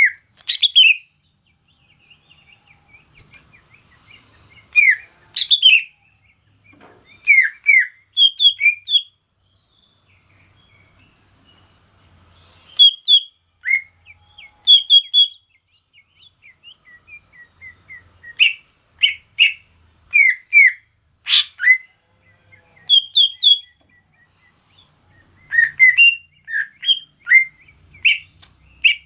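A cucak ijo (green leafbird) sings loud, short whistled phrases that rise and fall, in bursts of a few notes separated by pauses of a few seconds. A steady high hiss runs underneath.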